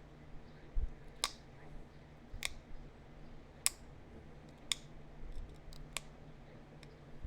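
Pressure flaking a small heat-treated chert point: five sharp clicks, a bit over a second apart, as small flakes snap off the edge.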